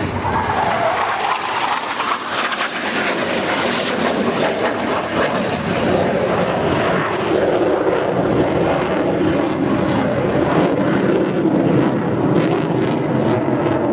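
Military jets flying a dogfight display, a loud continuous jet engine rush. About a second in, a tone drops in pitch as a jet passes. Toward the end the engine note slowly lowers and grows a little louder.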